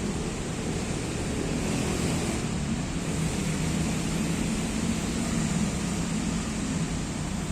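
Steady rush of road traffic, with a low drone that swells about two seconds in and eases off near the end.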